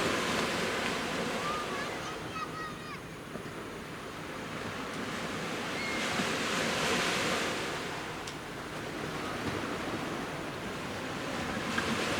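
Sea waves breaking and washing up a beach, the surf swelling and easing in slow surges every few seconds.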